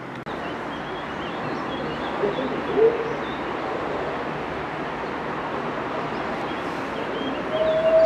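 Electric train approaching along the line, its noise slowly growing, while birds chirp. Near the end the locomotive sounds its horn once, a single steady tone lasting about a second, a greeting to the trainspotter.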